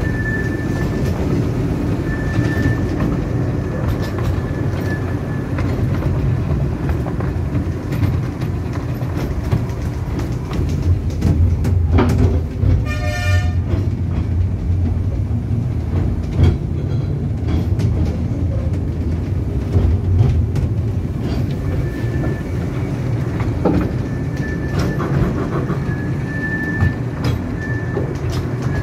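A 15-inch gauge miniature railway train running, heard from aboard a carriage: a steady rumble with clicks of the wheels over the rail joints, and a thin wheel squeal on curves near the start and again near the end. About halfway through the locomotive gives one short toot, about a second long.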